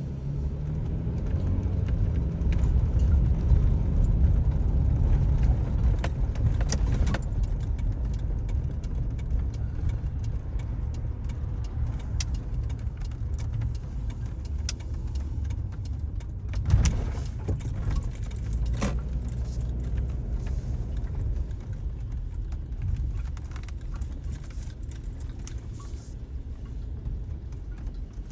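Truck driving, heard from inside the cab: a steady low road and engine rumble, with light rattling and clicks and one louder knock about 17 seconds in.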